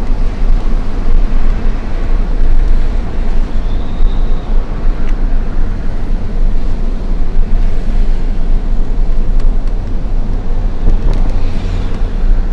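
Hino FL 260 JT truck's six-cylinder diesel engine running on the road, a loud, steady low rumble mixed with road noise.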